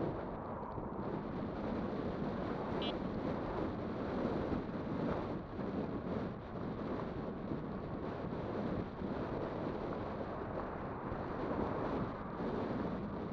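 Steady wind rushing over the microphone with rumble from riding an electric bike, no clear motor tone standing out.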